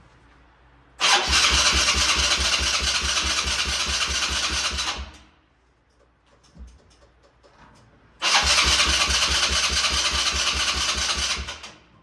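Electric starter cranking the Polaris Outlaw 90's engine in two tries of about four and three and a half seconds, with an even fast chugging. Each try stops abruptly without the engine catching.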